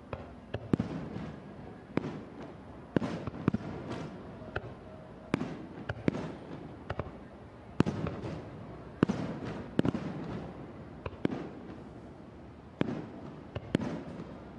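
Fireworks display: aerial shells bursting one after another at irregular intervals, about fifteen sharp bangs, each trailing off in a rolling rumble.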